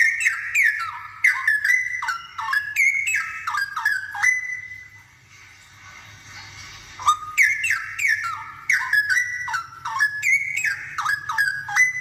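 Straw-headed bulbul singing: two rich, rapid phrases of loud whistled notes that sweep up and down, the second starting about seven seconds in after a short pause.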